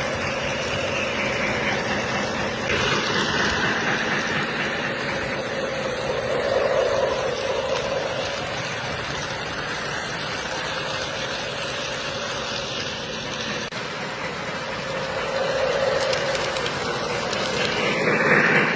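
O gauge model trains running on the track: a steady rumble of wheels and motors that grows louder a few times, with a brief louder sound near the end.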